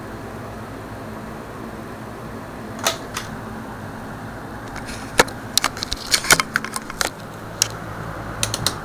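Cheap 20-inch box fan running steadily on its low setting, a whooshing hum with a faint low drone. Sharp clicks and taps come in about three seconds in and again in a cluster over the last four seconds.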